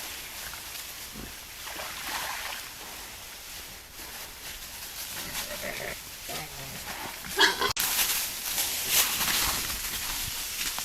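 Wild boar calling: scattered short grunts, then a loud squeal about seven seconds in, followed by rustling.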